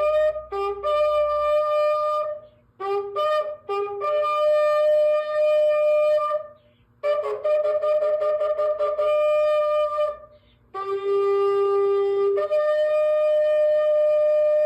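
A shofar blown in a series of calls. First come several short blasts, then long held blasts, each stepping up from a lower note to a higher one and held; the last one runs on past the end.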